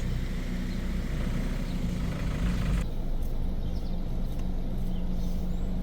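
A vehicle engine idling with a steady low hum, and a hiss over it that drops away about halfway through.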